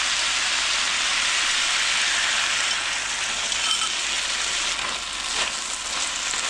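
Asparagus and beef stir-fry sizzling in a hot frying pan as a cornstarch and oyster-sauce mixture is poured in, a steady hiss that eases slightly about halfway. Near the end a wooden spatula stirs and scrapes through the pan.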